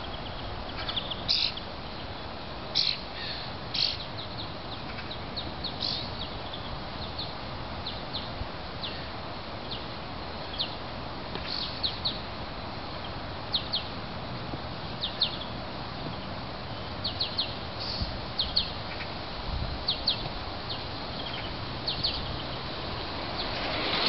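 Small birds chirping outdoors: short, high, scattered calls over a steady background hiss, with one brief low thud about twenty seconds in.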